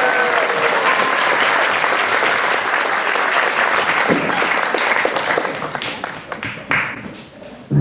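Audience applauding, the clapping thinning out to a few scattered claps and dying away near the end.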